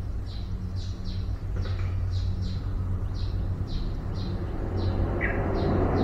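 A small bird chirping over and over: short high notes that fall in pitch, about two a second, over a steady low hum. A louder rumble builds near the end.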